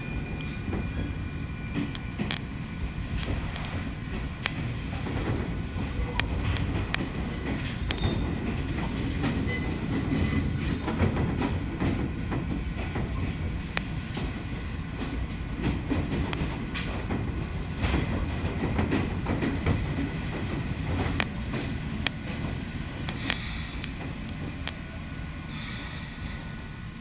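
Ohmi Railway local train running along the track: a steady low rumble of wheels on rail, with clicks as the wheels pass over rail joints and some faint wheel squeal.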